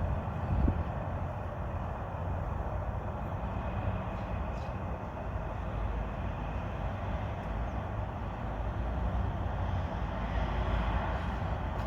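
Steady low rumble with a hiss of background noise, with a couple of short knocks near the start.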